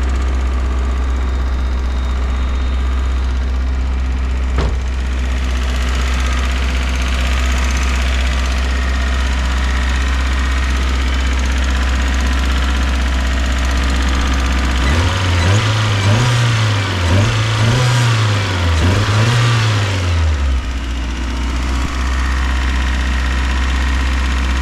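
Mazda Miata four-cylinder engine running at a steady idle, revved up three times in quick succession about two-thirds of the way through, then settling back to idle.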